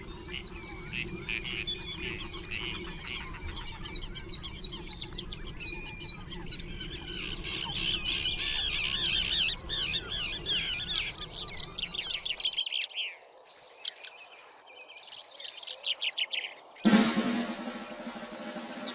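Birds chirping and twittering in a busy run of high calls, thinning out after about twelve seconds to a few loud, sharp single chirps. Music with drums comes in near the end.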